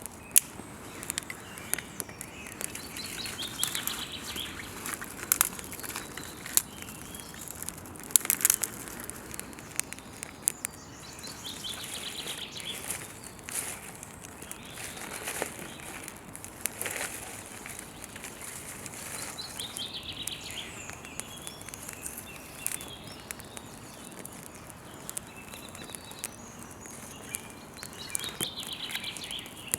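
Campfire crackling with scattered sharp pops, while a bird sings a short warbling phrase about every eight seconds.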